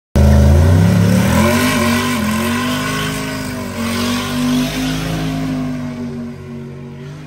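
Drag-racing vehicle's engine at full throttle. Its pitch climbs in the first second and then holds high while the sound steadily fades. It starts and cuts off abruptly.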